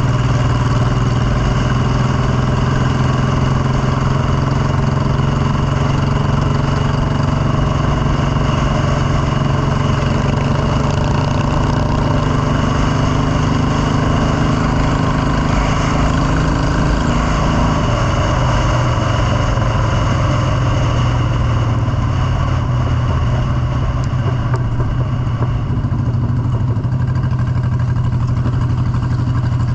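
Motorcycle engine running steadily under way, its pitch shifting slightly about eighteen seconds in.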